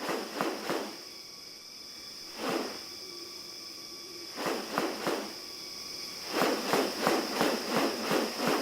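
A steady high-pitched insect drone from the rainforest, with repeated rustling swishes. The swishes come singly at first, then about three a second near the end.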